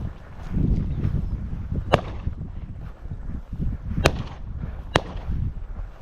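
Three shotgun shots fired at flushing upland birds (Hungarian partridge and sharp-tailed grouse): one about two seconds in, then two more about a second apart near the end, over wind rumble on the microphone.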